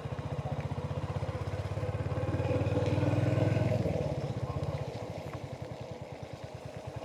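Royal Enfield Hunter 350's single-cylinder engine running under way, its exhaust beat pulsing steadily; it builds up toward about four seconds in, then drops back as the throttle eases.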